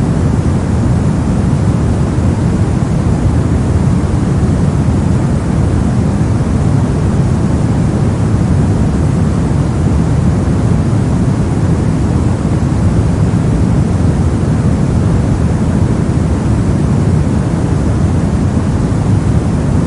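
Steady soft noise of a sleep and relaxation track, deep and even, most of its weight in the low end, with no change.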